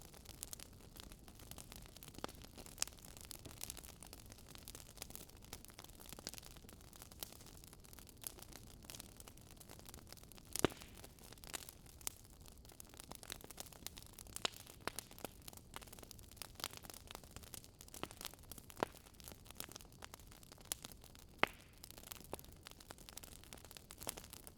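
Wood campfire crackling: irregular sharp pops and snaps over a low, steady hiss, with one louder pop about ten seconds in.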